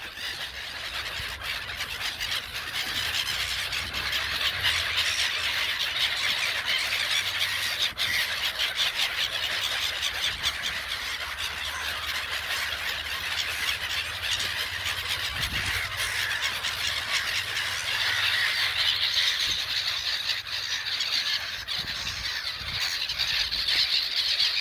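A flock of seagulls crying and squealing together, a dense and continuous clamour of overlapping calls.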